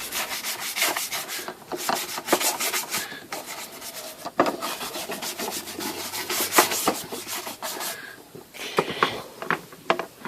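A rag scrubbing back and forth over a typewriter's casing cover: dense rubbing with short knocks and clicks, easing off about two seconds before the end.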